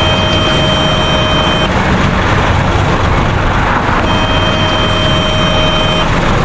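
Steady, loud vehicle running noise for the toy bus's drive, with a steady horn-like tone sounding twice, about two seconds each, early on and again a little past the middle.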